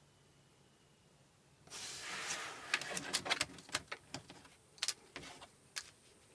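Handling noises: a brief rustle, then a string of sharp clicks and light knocks, irregularly spaced.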